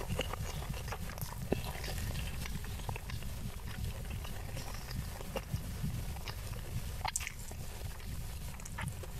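Close-miked chewing of a mouthful of rice and Padang-style omelette with the mouth closed: soft wet mouth sounds and many small clicks, with one sharper click about seven seconds in.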